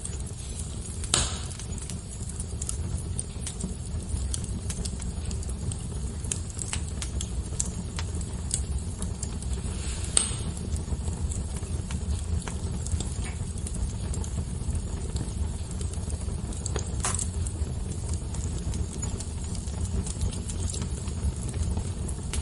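Fire crackling: scattered sharp pops and snaps over a steady low rumble, with three louder pops about a second in, near the middle and about three-quarters of the way through.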